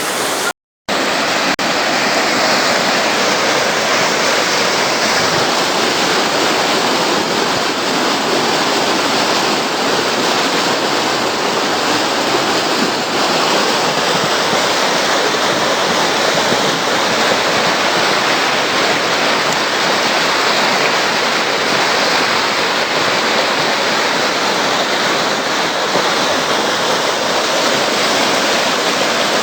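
Flash-flood water rushing down a wadi channel: a loud, steady rush of water, broken by a brief silent gap just under a second in.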